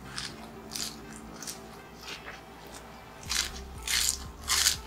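Crunching as a mouthful of crispy deep-fried chicharong bulaklak (pork mesentery) is chewed close to the microphone: a run of crisp crunches about every half second, louder from about three seconds in.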